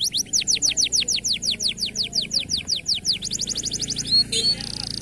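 Local canary singing a rapid trill of downward-sweeping notes, about seven a second. A little past three seconds it switches to a faster trill, and near the end it ends on a held buzzy note.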